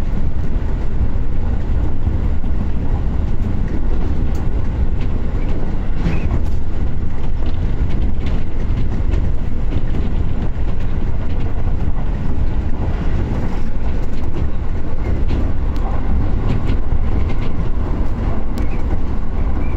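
A train running: a steady low rumble of the moving cars, with faint clicks from the rails.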